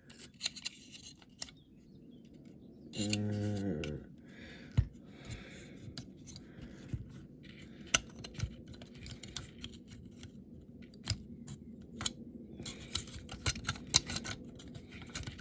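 Small clicks, taps and light scraping of plastic and metal parts of a diecast toy car being handled and fitted back together, with a brief low hum about three seconds in.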